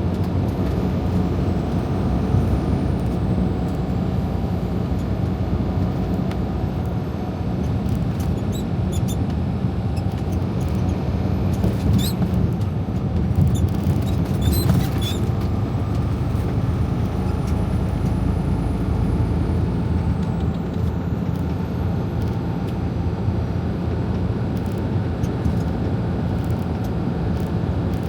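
Semi truck's diesel engine and road noise heard inside the cab while cruising at steady speed, a constant low drone. A few light clicks come about halfway through.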